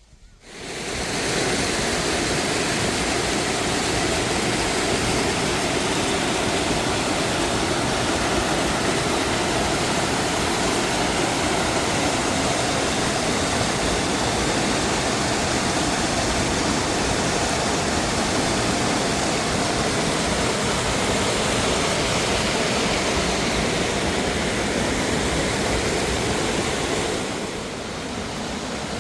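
Mountain waterfall cascading over rocks: a loud, steady rush of falling water that comes in abruptly and eases a little near the end.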